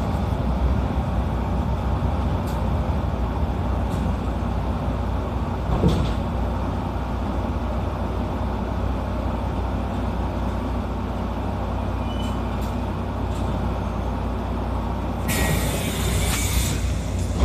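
Electric train heard from inside the carriage, running with a steady low rumble as it slows along a station platform. There is a single knock about six seconds in and a short hiss near the end.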